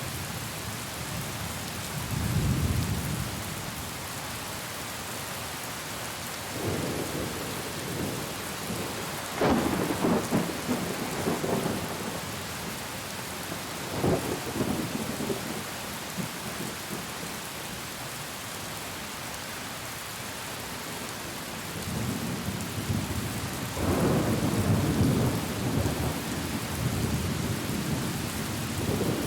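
Steady heavy rain with repeated thunder: a soft rumble a couple of seconds in, a loud sharp clap about ten seconds in followed by another crack a few seconds later, and a long rolling rumble near the end.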